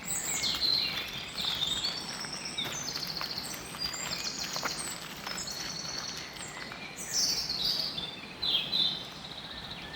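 Songbirds singing over a steady outdoor hiss: overlapping high phrases, several of them fast trills and downward-sliding notes. The loudest phrases come near the start, about seven seconds in, and again about eight and a half seconds in.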